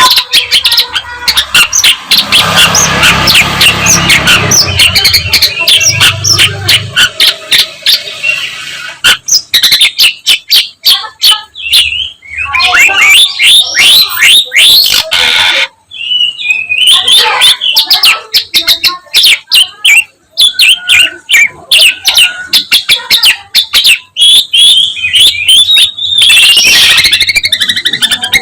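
Long-tailed shrike singing loudly and continuously: a fast, varied string of chirps, trills and harsh chattering notes, rich in phrases mimicked from other birds.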